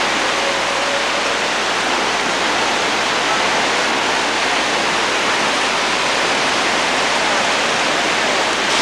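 Flash-flood water rushing down a wadi: a loud, steady wash of water noise.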